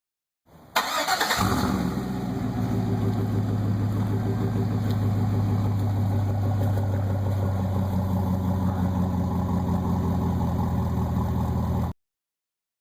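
1999 Chevy Silverado 1500's 5.3-litre V8 cranking briefly and catching with a quick flare, then settling into a steady idle through a single Cherry Bomb muffler on otherwise stock pipes. The sound cuts off suddenly near the end.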